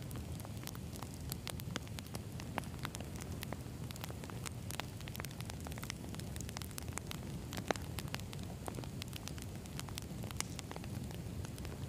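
Wood campfire burning: a steady low rumble of flames with frequent sharp crackles and pops from the logs, one pop louder than the rest a little past halfway.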